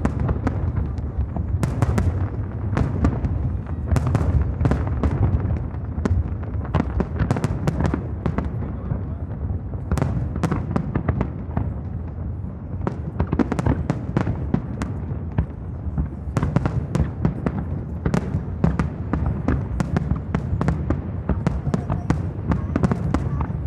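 Aerial fireworks display: a dense, continuous barrage of sharp bangs and crackling over a steady low rumble of shell bursts.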